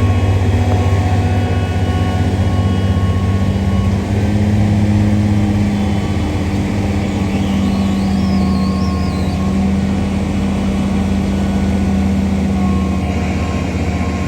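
Engine running loudly at a steady, constant speed.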